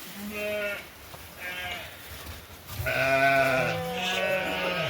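Goats or sheep bleating: a short call near the start, another a second later, then longer overlapping bleats through the second half.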